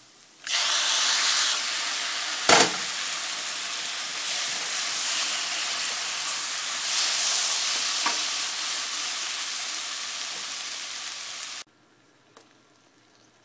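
Chopped tomatoes hitting hot oil and fried onion masala in a non-stick pan, setting off a loud, steady sizzle about half a second in. There is one sharp knock against the pan about two and a half seconds in. The sizzle cuts off abruptly near the end.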